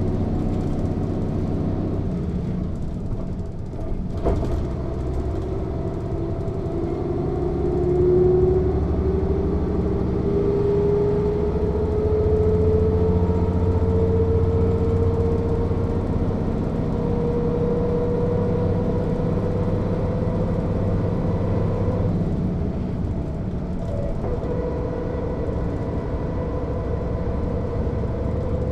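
Mercedes-Benz O 407 city bus's six-cylinder diesel engine under way, with a drivetrain whine that climbs slowly in pitch for most of twenty seconds as the bus gathers speed. There is a sharp click about four seconds in. Near the end the whine breaks off and resumes at a steady pitch over the running engine.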